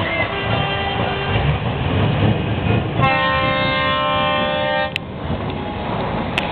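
A truck air horn sounds one steady, multi-toned blast of about two seconds and cuts off sharply. Underneath it, truck diesel engines rumble as the trucks pull away.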